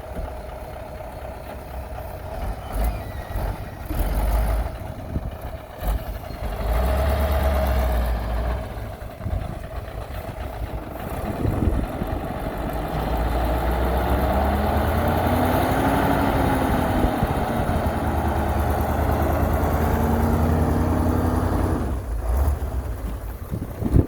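Heavy diesel engine of earthmoving machinery running, with the revs rising and falling in the middle, then holding steady before easing off near the end.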